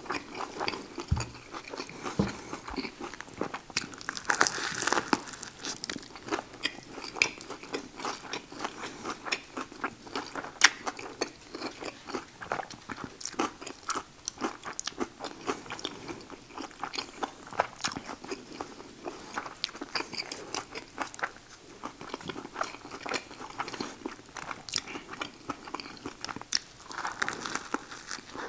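Biting and chewing a buffalo chicken sub sandwich, the lettuce, cucumber and green peppers crunching in a dense run of small crunches and clicks.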